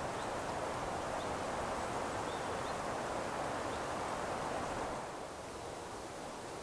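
Steady outdoor rushing noise that eases slightly about five seconds in, with a few faint, short, high chirps.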